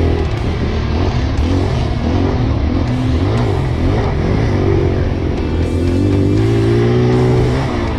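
Motocross bike engine revving, its pitch rising and falling again and again, over background rock guitar music.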